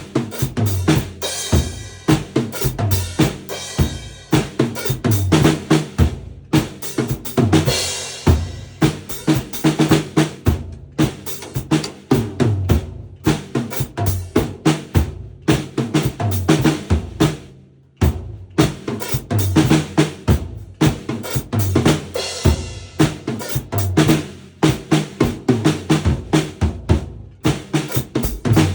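A beginner playing a drum kit: kick and snare beats with rolls and fills, and cymbal crashes now and then. There is a brief break about two-thirds of the way through before the playing starts again.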